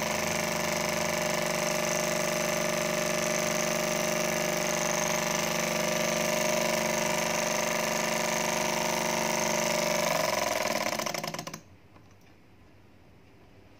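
Model Stirling engine running steadily with a constant mechanical hum and whir, then slowing with falling pitch about ten seconds in and stopping shortly after.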